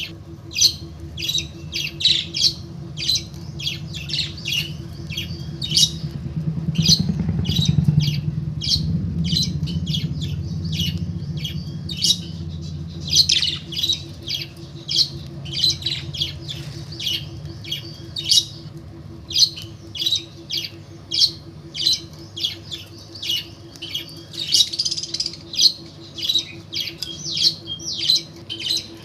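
Pet bird giving short, sharp high-pitched squawks over and over, about two a second, over a steady low hum.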